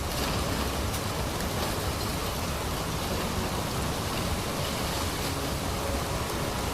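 Steady rushing noise of a storm: heavy rain and flowing water.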